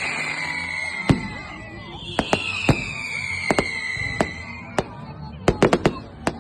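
Fireworks display: sharp bangs and cracks going off irregularly, with a quick cluster of cracks near the end. Two long whistles slide down in pitch over two to three seconds each, one fading about a second in and the next starting about two seconds in.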